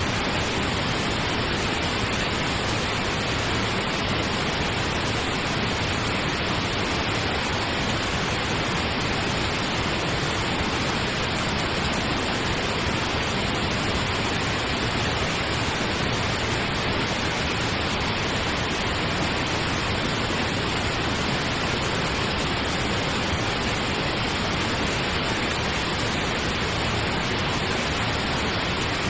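Steady pink noise: an even, unchanging hiss like a distant waterfall, with no breaks or events.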